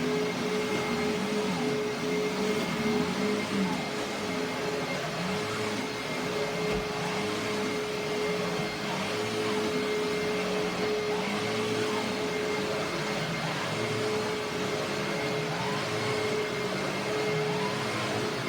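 Hoover WindTunnel Self-Propelled upright vacuum cleaner running, loud and steady: a constant motor whine over airflow noise, with a lower tone that wavers up and down again and again.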